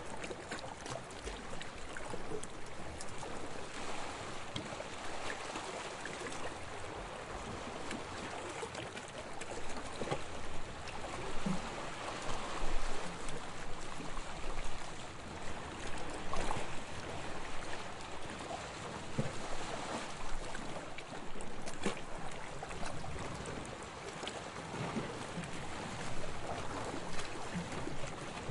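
Small waves lapping on a sandy shore, a continuous wash of water that swells and eases gently, one swell stronger about twelve seconds in, with small splashes and trickles along the way.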